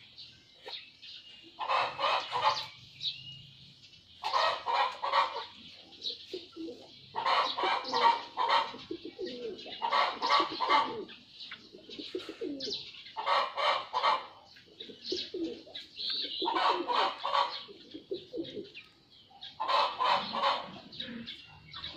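A bird calling over and over, each call about a second long, coming roughly every three seconds.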